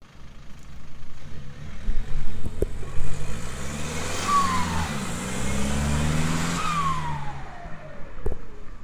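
Renault Laguna 2.2 dCi four-cylinder turbodiesel running through a straight-pipe exhaust, revved up twice and let fall back. A thin whistle falls in pitch as each rev drops away.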